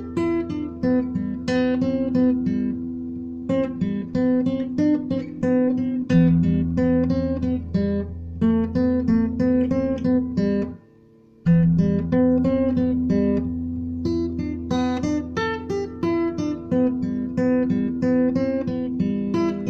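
Acoustic guitar playing an instrumental piece, picked notes over strummed chords and sustained bass notes. It stops briefly about eleven seconds in, then starts again.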